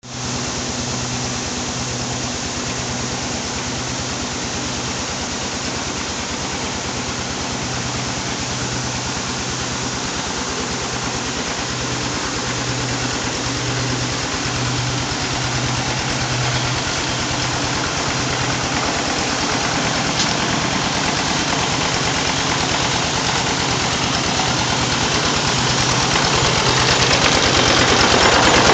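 An engine running steadily, with a pulsing low hum, growing gradually louder toward the end.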